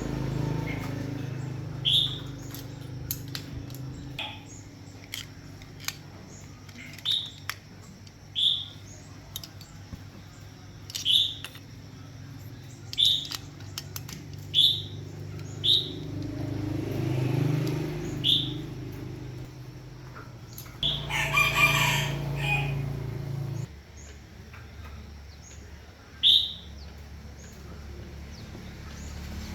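A rooster crows once, about three-quarters of the way through, over short high chirps that repeat every second or two. A steady low hum and scattered clicks run beneath them, and the hum cuts off near the end.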